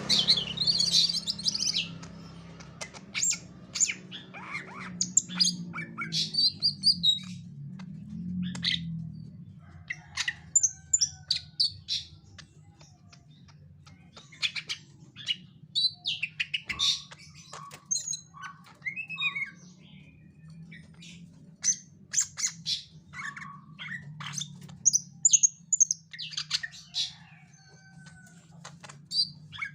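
Caged green leafbird (cucak ijo) giving a long irregular run of short chirps, squawks and scratchy calls with quick pitch changes, the agitated calling the uploader puts down to over-arousal (OB) from master birds kept in the same house. A steady low hum runs underneath, louder in the first nine seconds.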